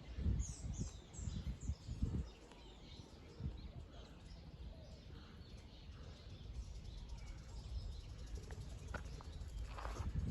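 Small birds chirping: a quick run of high, falling chirps in the first second and a half, then fainter calls. Low thumps sound in the first two seconds.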